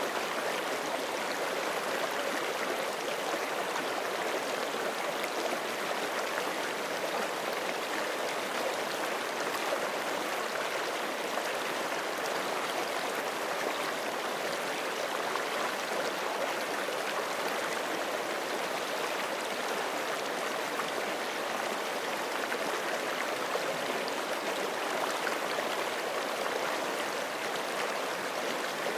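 Forest creek water rushing and babbling steadily over rocks, an even, unbroken flow.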